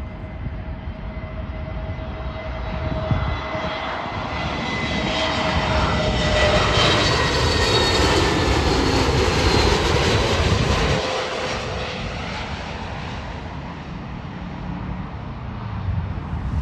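Jet airliner passing overhead: the engine roar swells to a peak about halfway through and then fades, with a whine that falls in pitch as it goes by.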